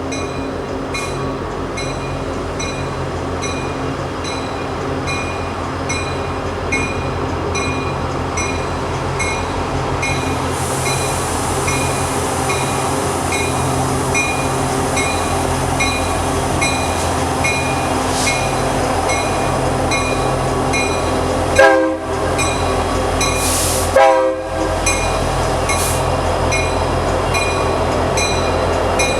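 Diesel freight locomotives running with a steady drone while a bell rings at a regular beat. Two short horn blasts sound about three quarters of the way through.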